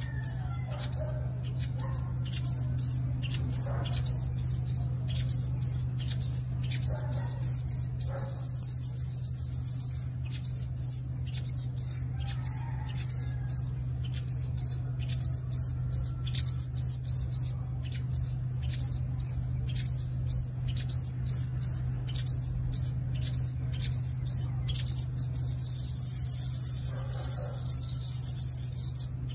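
Sunbird singing: a fast run of thin, high, downward-slurred chirps, several a second, broken twice by a rapid buzzing trill lasting a couple of seconds. A steady low hum lies underneath.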